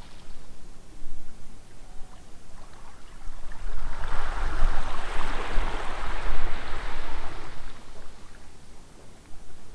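Harbour water sloshing with wind buffeting the microphone as a deep rumble; the wash of water swells for about four seconds in the middle.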